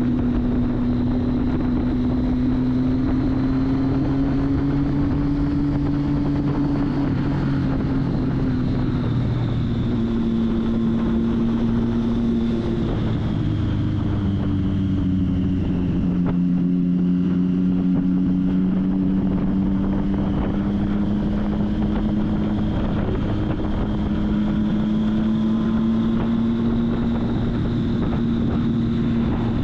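Triumph Street Triple's inline three-cylinder engine running under way, heard from the bike with wind noise on the microphone. The engine note drops in pitch about nine and thirteen seconds in, then climbs slowly.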